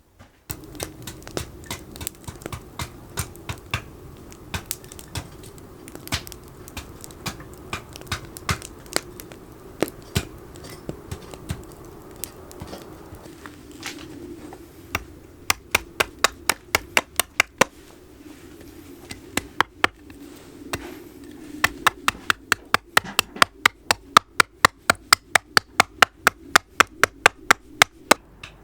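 Hand tools cutting into a hornbeam blank: a long series of sharp woody clicks and knocks, irregular at first, then quick and even at about four a second toward the end.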